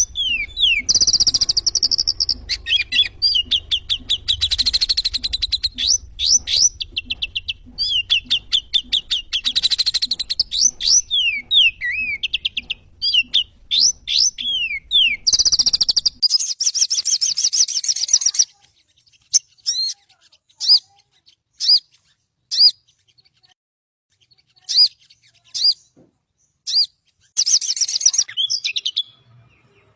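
Little spiderhunter (sogon) song recording: rapid runs of high, sharp, slurred chip notes. About 18 s in, the runs thin out to single notes spaced by short pauses. A faint low hum lies under the first half and stops about 16 s in.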